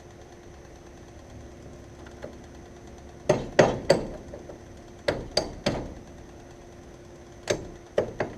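Sharp knocks of something being tapped, as with a hammer, in quick runs of about three strikes: two runs a couple of seconds apart, then more starting near the end.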